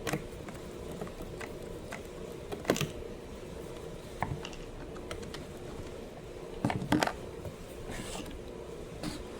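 Scattered clicks and knocks of hand tools and small chainsaw parts being handled during a spark plug change, the loudest about three and seven seconds in, over a steady hum.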